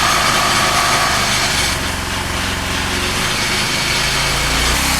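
Predator small gas engine on a go-kart-style four-wheeler running steadily, its note shifting slightly about two seconds in and again near the end.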